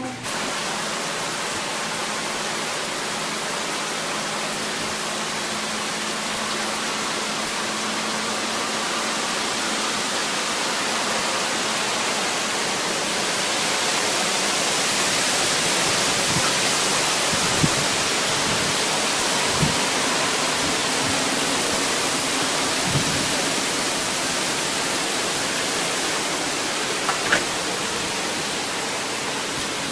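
Steady hiss of heavy hurricane rain, swelling a little in the middle, with a few soft knocks.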